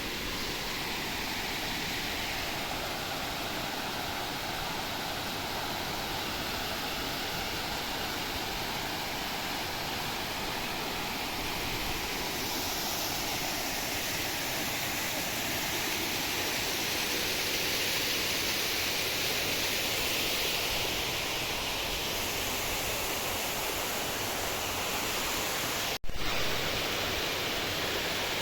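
Steady rush of flowing water, a continuous even roar, which cuts out for an instant near the end.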